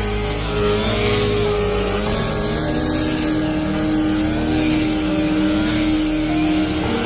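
Engine of a rice harvesting machine running steadily, its pitch wavering slightly as the load changes.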